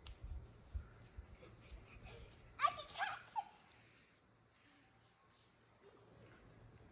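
Steady high-pitched insect chorus running without a break. A brief gliding call cuts through it about two and a half seconds in.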